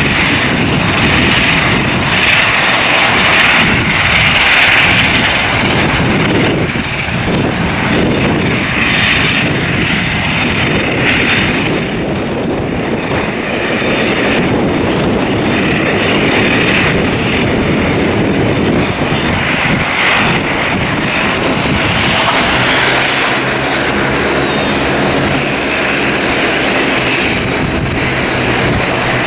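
Bombardier Dash 8 Q400 turboprop running, the engines and propellers making a loud, steady noise with wind buffeting the microphone. A steady low drone joins about two-thirds of the way through.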